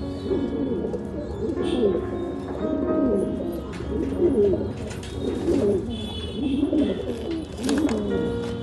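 Several domestic pigeons cooing at once, their calls overlapping continuously, with background music playing.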